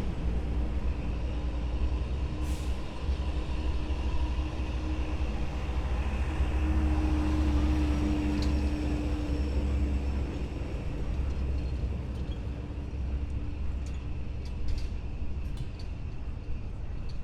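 Heavy military vehicles' engines rumbling as they drive past in a column, deep and steady, swelling to their loudest about halfway through and then easing.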